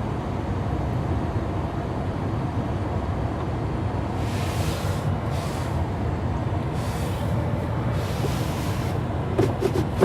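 Ford F-150 pickup's engine idling steadily as a low rumble, heard from inside the cab, with a few short bursts of hiss about halfway through and a few light clicks near the end.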